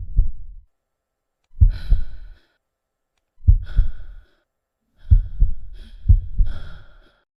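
Heartbeat sound effect: deep double thumps in five groups, one every second or two, with a heavy breath or sigh heard over most of the beats. Silence falls between the groups.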